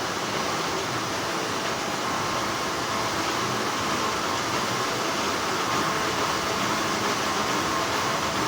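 Steady hum of textile factory machinery, an even noisy drone with a faint steady tone over it and no breaks.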